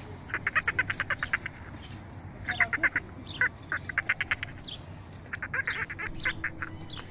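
Domestic ducks quacking in several rapid runs of short quacks, each run lasting about a second.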